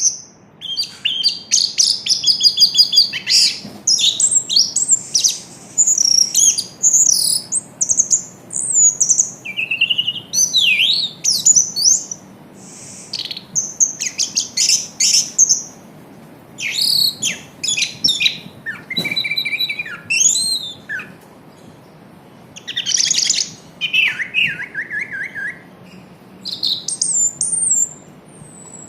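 Orange-headed thrush singing: a varied run of fast whistled and chattering phrases, broken by short pauses.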